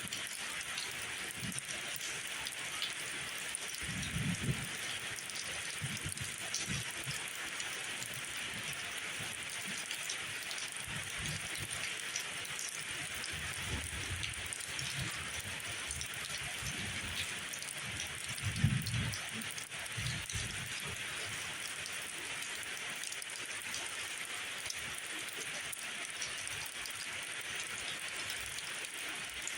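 Steady rain falling, with scattered drop ticks through it and a few low dull thuds, the loudest about two-thirds of the way in.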